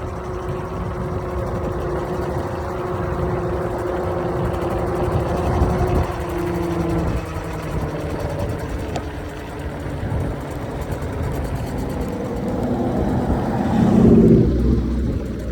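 Riding an 800 W electric scooter: wind buffets the microphone under a steady whine from the hub motor. The whine steps up in pitch and fades about seven seconds in. Near the end the sound swells briefly louder.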